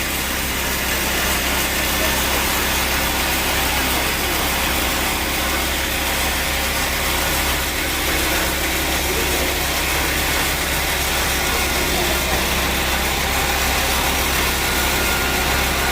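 Sawmill machinery running steadily: a constant motor hum under a broad, even noise.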